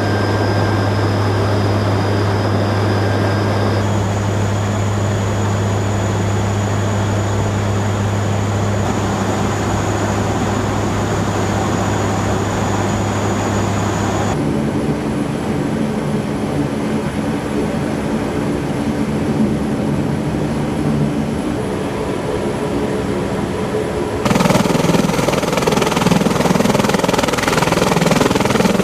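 MV-22B Osprey tiltrotor engines and proprotors running, a loud steady mechanical din with a low hum. The sound changes abruptly three times, as if between different shots, and is loudest in the last few seconds.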